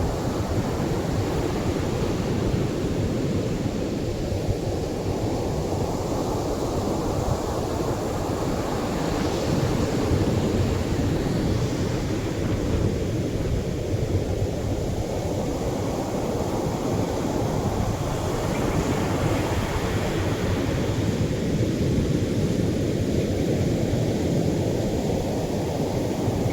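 Atlantic surf breaking and washing up a beach: a steady low rush of waves, swelling brighter about ten seconds in and again near twenty seconds.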